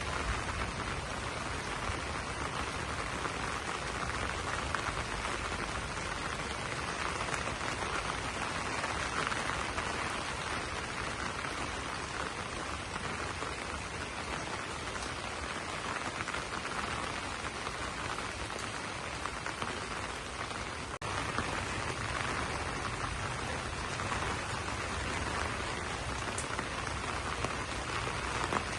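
Steady rain falling on banana leaves, an even dense patter of drops with no let-up. There is a split-second dropout about two-thirds of the way through.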